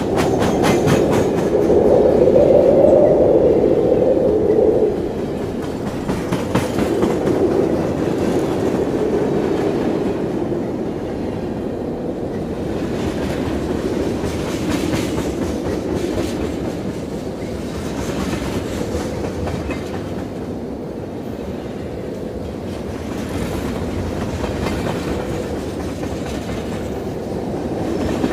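Train running on rails: a continuous rumble with wheel clatter, loudest in the first few seconds, then dropping suddenly about five seconds in and running on steadily.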